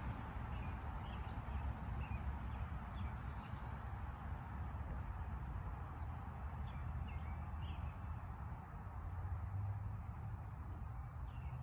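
Small birds chirping: a short high chirp repeated two or three times a second, with a few softer, lower chirps between, over a steady low background rumble.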